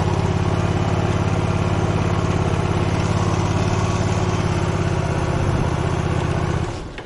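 Motorcycle engine idling steadily, then stopping about a second before the end.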